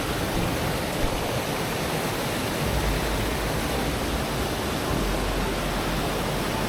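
Steady rushing of fast-flowing water running high, an even hiss with no break.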